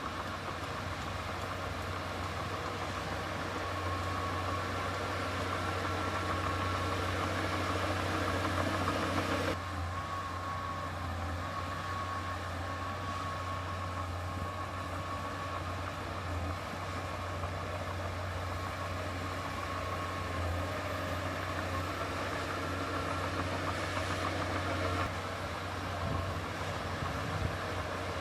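Heavy diesel earthmoving machinery running steadily with a deep, constant hum and a steady whine above it. The sound drops suddenly in level and brightness about nine and a half seconds in, then carries on.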